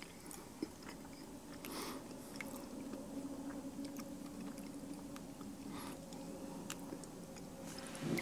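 Faint chewing of a mouthful of cookies and cream pie, with small wet mouth clicks and a few soft breaths, over a faint steady hum.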